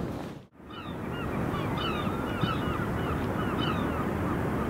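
Birds calling over and over in short, quick, chirping notes, over a steady low rush of wind and sea.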